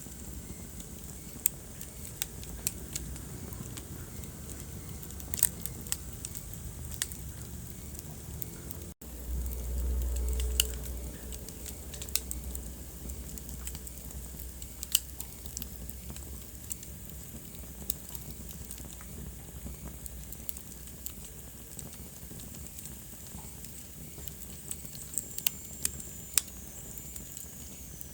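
Wood fire in a fireplace crackling, with irregular sharp pops over a steady hiss. About nine seconds in the sound drops out for an instant, then a low rumble swells for a few seconds before fading back.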